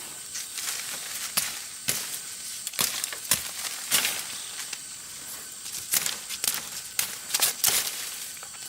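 Irregular sharp crunches and snaps, roughly one or two a second, over a steady high-pitched hiss.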